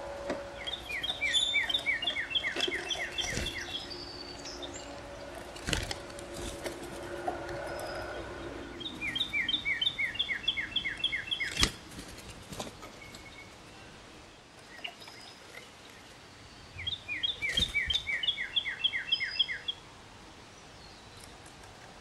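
A songbird sings the same trilled song three times, each a quick, even series of about a dozen short downslurred notes lasting about two and a half seconds. A few sharp knocks come in between.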